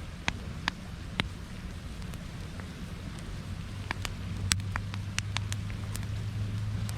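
Campfire crackling, with scattered sharp pops from the burning wood over a low steady rumble that swells slightly about halfway through.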